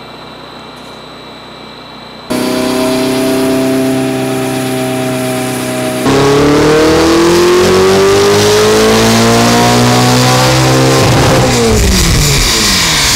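Ferrari 488's twin-turbo V8, fitted with upgraded turbos, downpipes and an aftermarket exhaust, under load on a chassis dyno. It comes in about two seconds in at a steady engine note. About six seconds in it goes to full throttle for a fifth-gear pull, the pitch rising steadily for about five seconds. Near the end the pitch falls as it winds down, with a rush of hiss.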